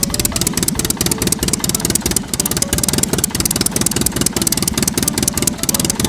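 Small engine running steadily, with a rapid even train of pulses, as the model mini tractor moves off.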